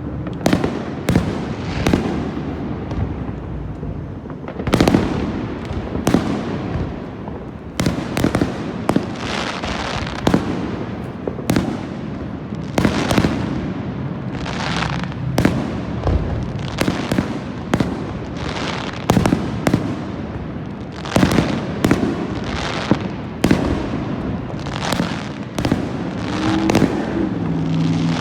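Aerial fireworks display: a rapid, continuous string of shell bursts and bangs, often several a second, each trailing off in a short echo.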